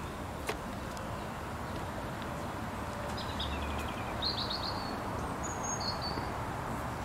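Outdoor garden ambience as picked up by a Canon EOS 750D's built-in microphone: a steady low hum and hiss, with a light tick about half a second in. In the second half a few birds chirp briefly, including a short trill.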